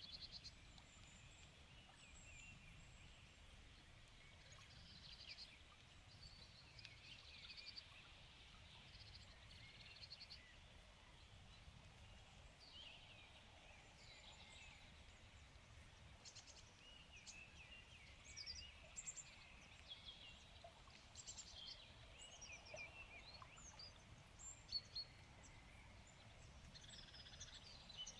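Faint evening birdsong: several small birds chirping and trilling on and off, over a low, steady background rumble.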